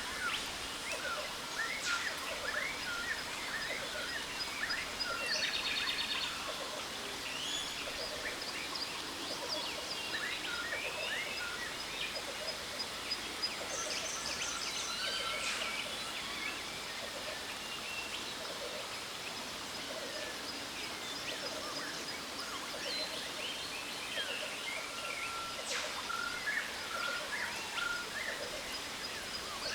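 Jungle birds chirping, whistling and trilling in many overlapping calls over the steady rush of a waterfall, with a lower call repeating about once a second.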